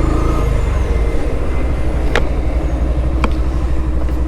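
Steady low vehicle rumble, with two sharp clicks about two and three seconds in.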